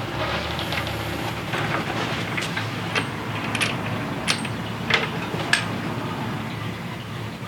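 Hand tools clinking on metal while bolting motorcycle rear shocks back on: about seven sharp metallic clinks spread over a few seconds, over a steady background hum.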